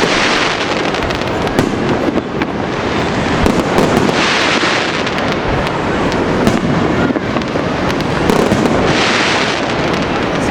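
Fireworks display going off: a dense, unbroken run of bangs and crackles, with louder hissing swells about four and nine seconds in.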